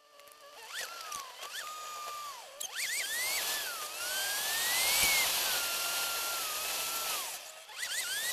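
Car engine and road noise in a fast-forwarded recording, so the engine comes out as a high, drill-like whine. Its pitch climbs and drops again and again, with quick rises followed by falls as the car speeds up and changes gear, over a steady high hiss of road and wind.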